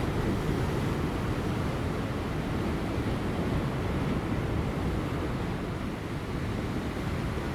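Ocean waves breaking and washing over offshore rocks, a steady rush of surf with light wind.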